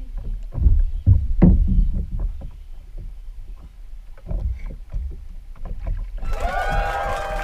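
Water sloshing and lapping against a plastic boat hull at the waterline, with irregular low thumps and knocks from the hull. About six seconds in, music with a singing voice starts abruptly.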